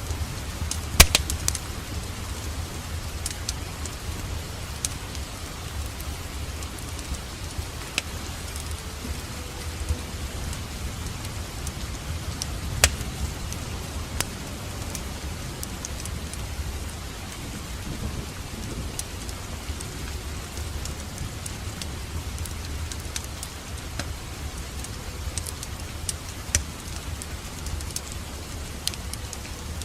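Wood fire crackling in a fireplace: irregular sharp pops and snaps over a steady low rumble, with a cluster of loud pops about a second in.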